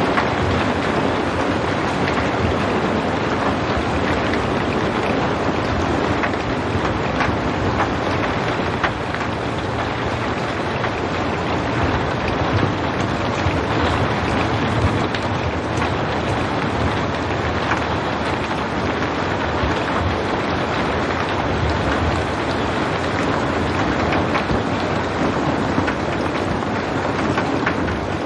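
Steady rain falling, a dense even hiss with scattered drop ticks and a low rumble underneath.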